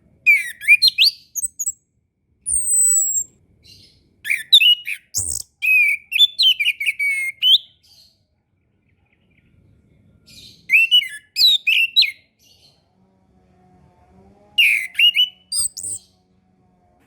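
Chestnut-capped thrush (anis kembang) singing: short bursts of quick, varied high notes separated by pauses of a second or more, with one thin falling whistle about two and a half seconds in.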